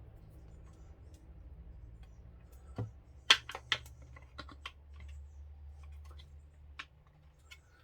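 Sharp clicks and taps of small hard kit parts and tools being handled during model assembly, a quick run of them in the middle and one more near the end, over a faint low hum.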